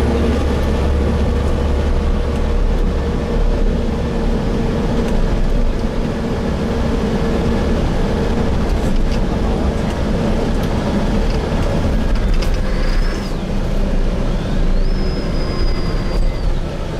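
Interior of a Gillig Phantom diesel transit bus cruising on the freeway: steady engine drone and low road rumble, with faint high whistles late on.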